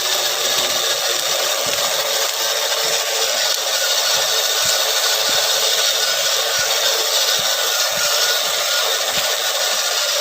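Electric motor and gear drive of a 1/10-scale RC crawler truck, a steady whirring whine.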